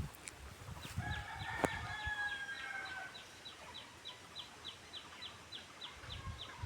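A rooster crowing once, faint, a held call of about two seconds starting about a second in. Behind it runs a steady series of short high chirps, about four a second.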